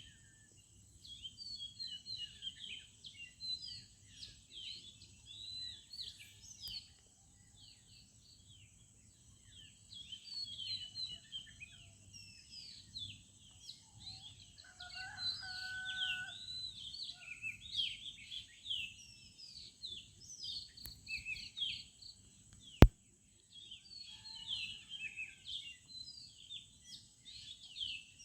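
Many small birds chirping and twittering in a busy chorus, with a short lull early on. About halfway through a lower, longer call sounds, a rooster crowing, and a single sharp click stands out a little later.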